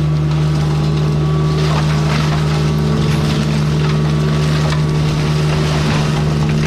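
Heavy land-clearing machine's engine running steadily under load, with irregular crackling and snapping of brush and wood being mulched from about two to five seconds in.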